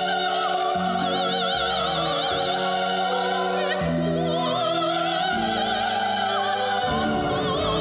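A song playing: a singer holding long notes with wide vibrato over orchestral accompaniment.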